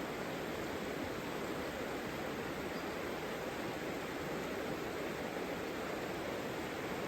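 Savica river flowing over rocks: a steady, even rush of water.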